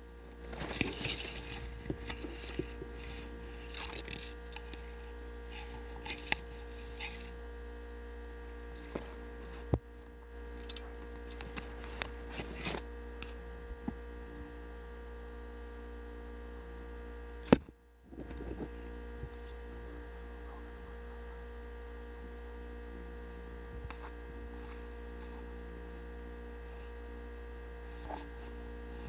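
Steady low electrical hum with a set of faint steady tones over it. Scattered clicks and rustles come in the first half, with one loud sharp knock a little past halfway and a few more clicks near the end.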